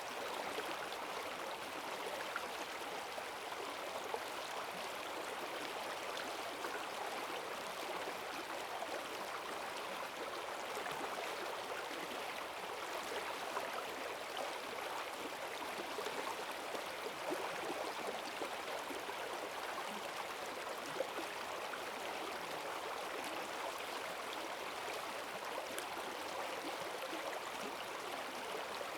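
Forest stream swollen with rainwater rushing and gurgling in a strong, steady current.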